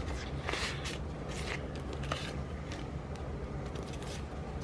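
Sticker sheets being leafed through by hand: a few short paper rustles over a low steady room hum.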